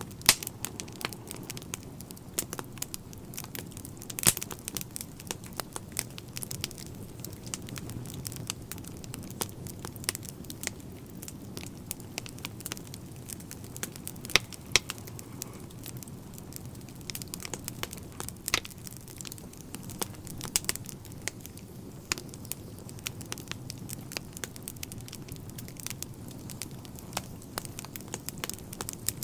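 Wood fire in a fireplace burning, with frequent irregular crackles and sharp pops over a steady low rumble of flame.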